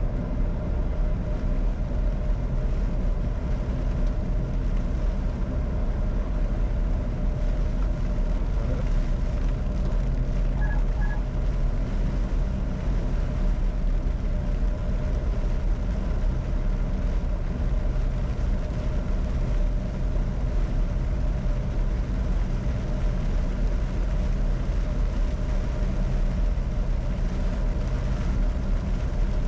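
Steady hum of a Bombardier Challenger 605 business jet's cockpit on the ground, with aircraft systems running and several steady low tones. Two short beeps sound about eleven seconds in.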